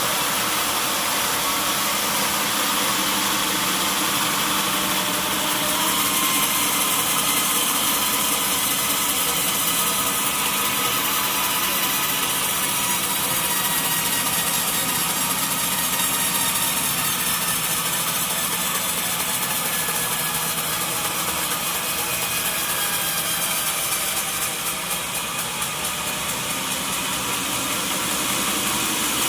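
Sawmill machinery running steadily, a constant engine-like hum with a hiss over it.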